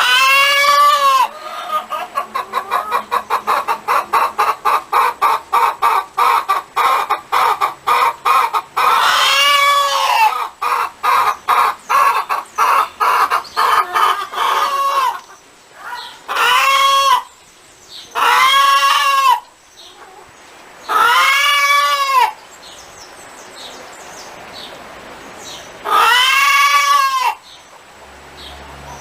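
Domestic hen cackling: rapid runs of short clucks, several a second, broken by loud drawn-out squawks that rise and fall in pitch, about six of them.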